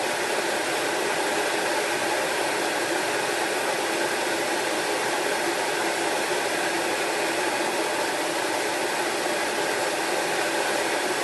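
Whirlpool range hood's exhaust fan running, a steady even rush of air.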